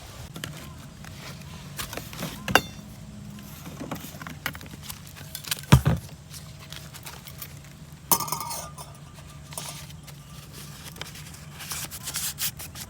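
Camping cookware and utensils being handled, clinking and knocking against each other. There are several sharp knocks, the loudest about six seconds in, a brief metallic ring about eight seconds in, and a run of small clinks near the end.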